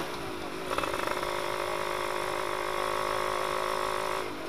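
Yamaha F1ZR two-stroke motorcycle engine running with the exhaust silencer baffle removed, giving a raw, loud exhaust note. The revs drop at the start, pick back up about a second in, hold steady, then ease off near the end.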